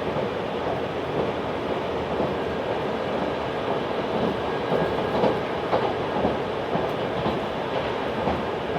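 Running noise inside a JR 383 series tilting electric express train at speed: a steady rumble of wheels on rail, with a few faint rail-joint clacks between about four and eight seconds in.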